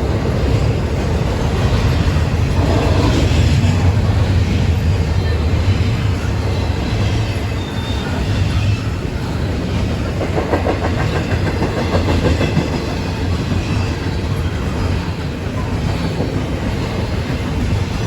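CSX freight train rolling past, a steady, loud noise of wheels on the rails.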